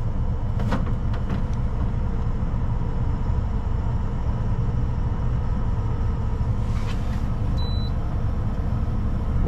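Steady low rumble of a vehicle heard from inside it, with a short high beep about three-quarters of the way through.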